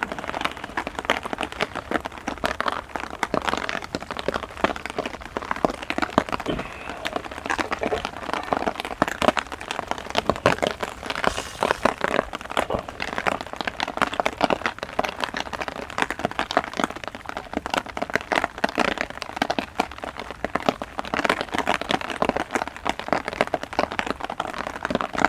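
Heavy rain drumming on a small umbrella sheltering the microphone: a dense, irregular patter of sharp drop ticks that keeps on steadily.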